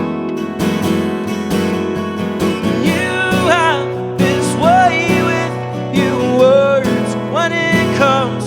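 Live acoustic guitar strummed steadily with a male voice singing a wavering melody line over it.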